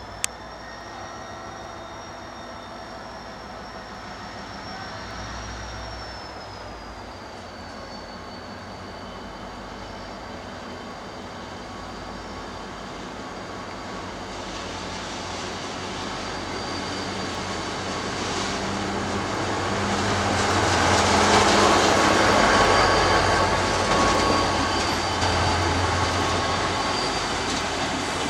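A train approaching and passing on rail, its rumble and wheel-on-rail noise building to a peak about three quarters of the way through, then easing off. A thin high squeal wavers in pitch over it.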